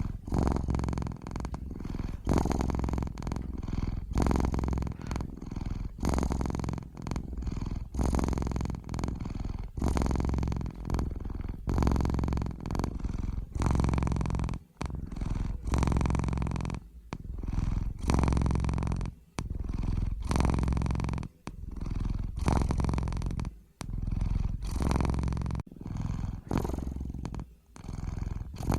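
Domestic cat purring close up, a steady low buzz that swells and fades with each breath in and out, about one breath a second.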